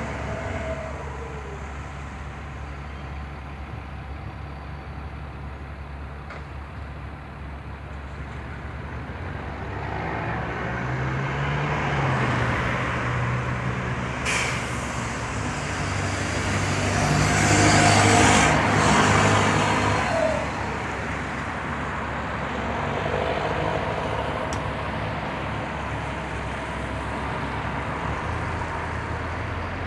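Scania L94UB bus's diesel engine running, building up and rising in pitch from about ten seconds in and loudest a little past halfway, then settling back to a steady hum. Two short, sharp hisses of air cut through near the loudest part.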